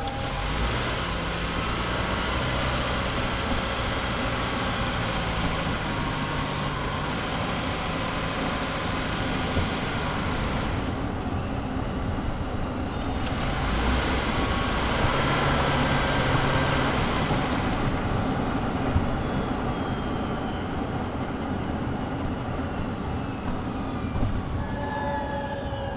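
Cabin sound of a 2023 Toyota Highlander Hybrid on the move: steady tyre and road noise over a low drone, with a thin, high steady whine from the hybrid drive. Near the end the whine glides in pitch.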